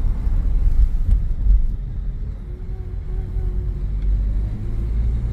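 Low, steady rumble of a car.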